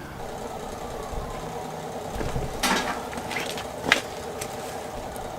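A steady mechanical hum with several fixed pitches. Two sharp clicks or knocks stand out, one about two and a half seconds in and one about four seconds in.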